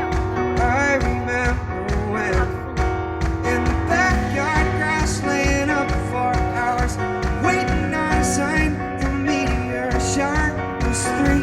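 A live band playing a pop song, with held chords, a wavering melody line and a steady kick-drum beat about twice a second.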